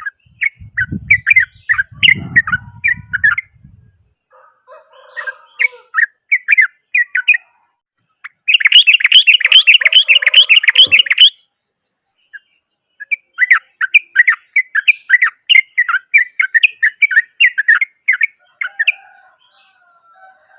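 Yellow-vented bulbul singing in bursts of rapid, harsh chattering notes, including a loud, very fast run of notes in the middle. A low rumbling noise sits under the song for the first few seconds.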